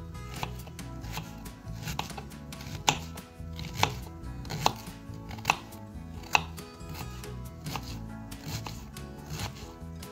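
Kitchen knife chopping an onion on a wooden cutting board: a string of sharp, irregular knocks of the blade striking the board, the loudest coming about once a second in the middle.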